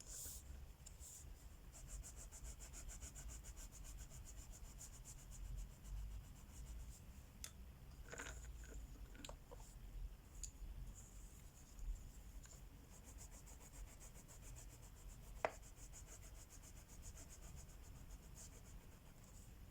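Crayola wax crayon rubbing on a coloring book page in fast, even back-and-forth strokes, with a few light clicks.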